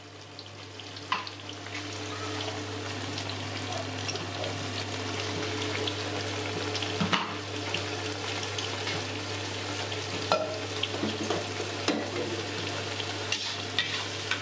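Ground spice paste of candlenut, shallot, garlic, dried shrimp and chillies sizzling and crackling in hot oil in an aluminium wok. The sizzle grows louder over the first couple of seconds, with scattered sharp crackles, and a spatula stirs the paste near the end. The paste is being sautéed until it is cooked through and changes colour.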